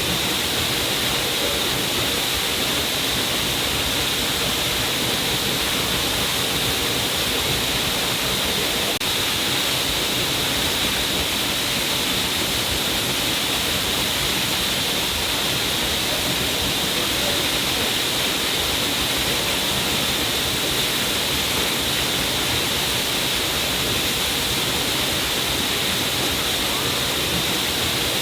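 A stream of water falling down a cliff face, a steady unbroken rush and splash.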